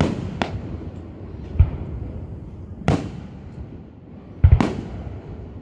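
Aerial firework shells bursting overhead: about six sharp bangs and deep booms at irregular intervals, the loudest pair near the end.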